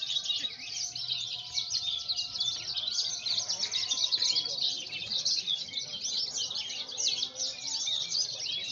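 Javan bush lark (branjangan) singing a fast, continuous stream of high chirps and trills, with fainter lower whistled notes underneath.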